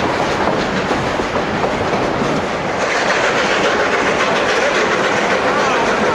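Durango & Silverton narrow-gauge train running along the track: a steady rumble of wheels on rail with a clickety-clack over the joints, growing a little louder and brighter about halfway through.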